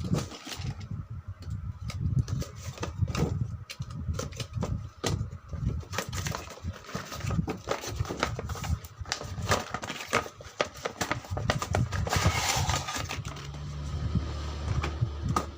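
Irregular clicking and clattering of a plastic remote-control toy car being handled, with a denser rattling patch near the end.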